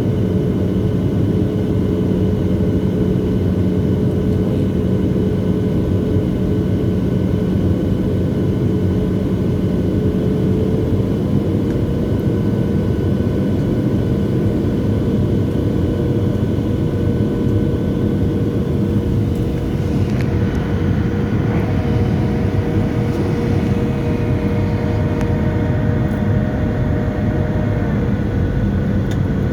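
Cabin noise of a Boeing 737-700 in flight: a steady rumble with the held tones of its CFM56-7B jet engines. One tone steps up slightly about a third of the way in, and new, higher tones join a little past two-thirds of the way through, showing a change in engine power.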